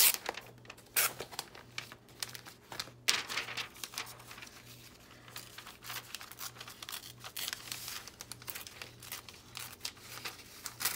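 Paper being torn by hand into small pieces, with rustling and crinkling as the scraps are handled; the loudest tear comes about three seconds in.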